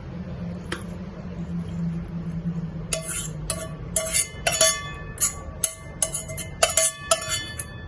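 A utensil clinking against a ceramic plate, about a dozen sharp ringing clinks in quick uneven succession from about three seconds in.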